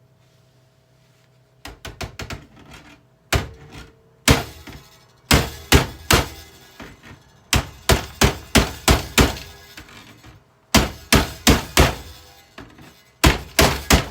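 A boombox's plastic casing being struck hard again and again, the blows coming in quick bunches of several hits with short pauses between.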